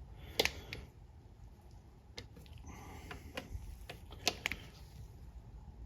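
A hand torque wrench clicking on the transmission valve body bolts as they are tightened in a torquing sequence. Sharp single clicks come irregularly, about half a dozen, with a second or so between most of them.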